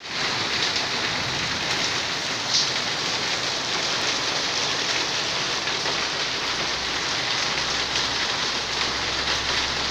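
Steady rain falling on a concrete yard and wet leaves, an even continuous hiss, with one louder drop or splash about two and a half seconds in.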